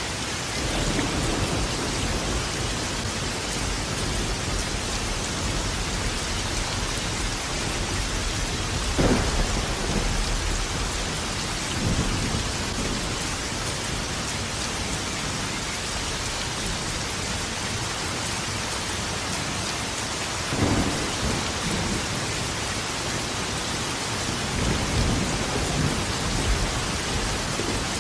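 Steady heavy rain falling, with thunder rumbling through it: a long low rumble starting about a second in, sharper claps about nine and twenty-one seconds in, and more rolling thunder near the end.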